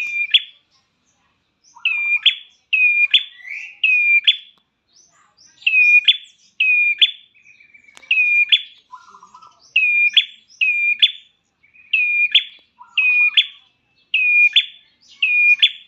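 Prenjak klawu, a prinia, calling in a lure recording: loud, sharp high chirps, each dropping quickly in pitch, repeated in quick runs of two or three with short pauses between, and now and then a lower buzzy note.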